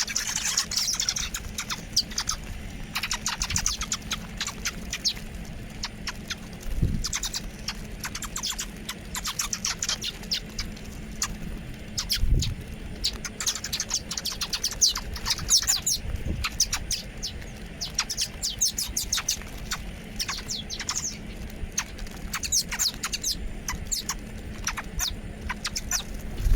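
Small birds chirping and twittering, with many quick high notes in rapid runs. A few brief low thumps come in between, and a faint steady low hum runs underneath.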